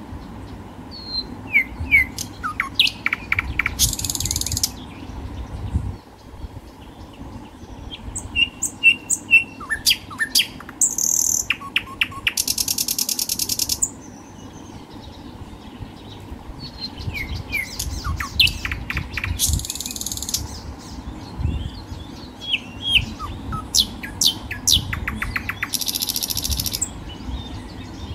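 Birds chirping and calling: many short, sharp chirps, broken by a few rapid, high buzzing trills about a second long, over a faint low background hum.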